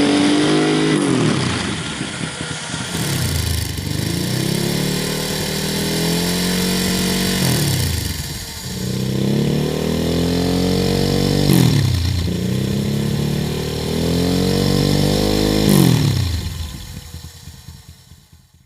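Ducati 999 L-twin engine through Dominator oval aftermarket silencers, its engine speed rising and falling several times with quick sharp dips in pitch. The sound fades away near the end.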